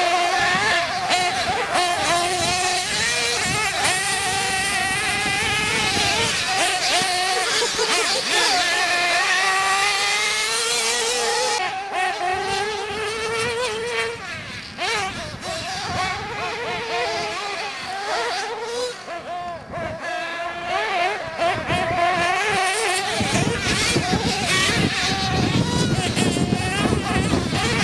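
Several nitro RC car engines buzzing at high revs, with their pitches rising and falling as they accelerate and ease off. From about 23 seconds in, a louder rushing noise joins them.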